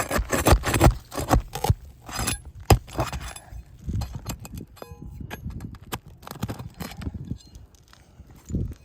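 Roofing nails being pried out of asphalt shingles with a metal tool: scraping and metallic clinks and knocks, with one sharp strike about three seconds in and a short metallic ring a couple of seconds later.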